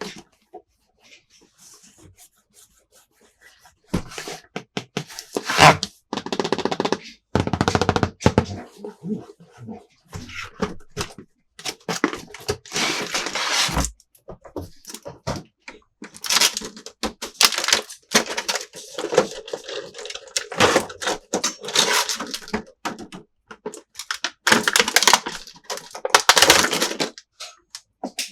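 Hands unpacking and handling a plastic toy playset: packaging rustling and crinkling in irregular bursts, mixed with clicks and taps of small plastic pieces. Mostly quiet for the first few seconds before the handling picks up.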